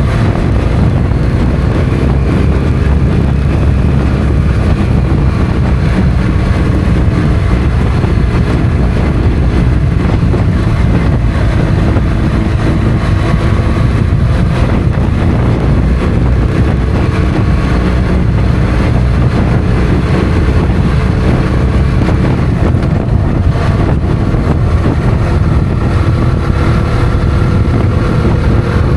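Motorcycle engine running at road speed, its note slowly rising and falling, under steady wind rush on the microphone.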